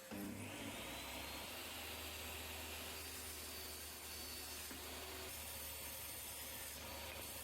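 A woodworking shop machine running steadily: an electric motor hum under an even, airy hiss, with no change in load.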